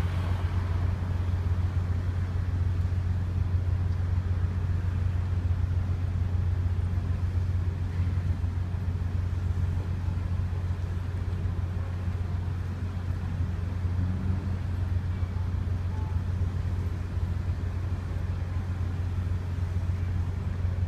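A ferry's engine running with a steady low drone and an even background rumble, as heard on board.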